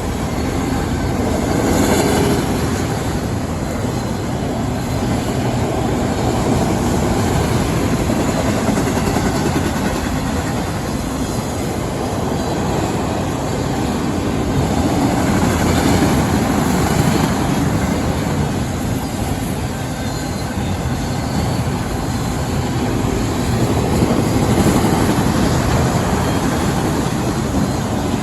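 CSX freight train of autorack cars rolling past, a steady noise of wheels on rail that swells and eases a little as the cars go by.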